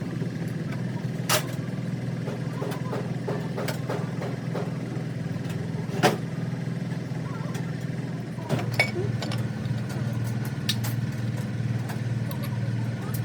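An engine idling steadily with a low hum that grows louder about eight and a half seconds in, with a few sharp metallic clinks.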